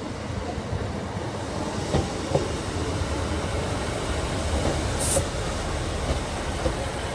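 Class 156 diesel multiple unit running slowly past and into the station: a steady rumble of engine and wheels that builds up, with two sharp knocks about two seconds in and a brief high hiss about five seconds in.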